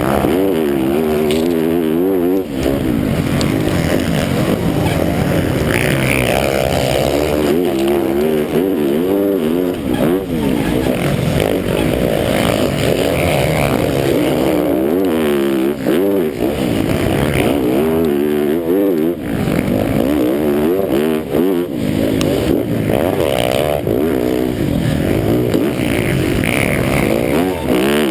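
MX1 motocross bike engine revving hard and dropping back again and again as the rider works the throttle and gears around a track, its pitch rising and falling every second or two.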